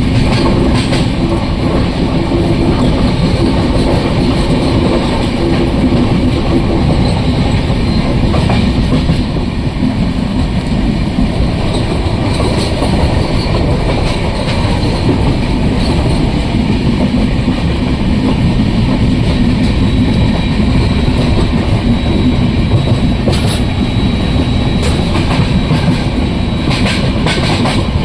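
Moving train: the steady, loud rumble of the carriage and its wheels running on the rails.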